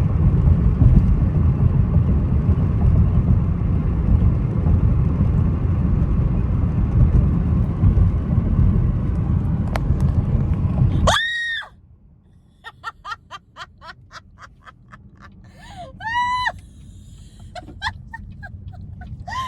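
A loud, steady low rumbling noise that cuts off abruptly about eleven seconds in. A cat then meows twice in short arched calls, with a quick run of clicks between them.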